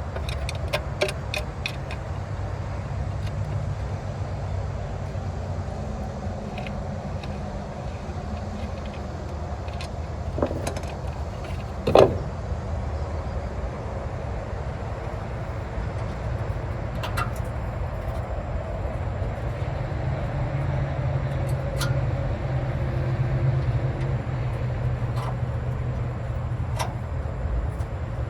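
Steady low rumble of a running motor vehicle, with scattered small clicks and taps and one sharp knock about twelve seconds in.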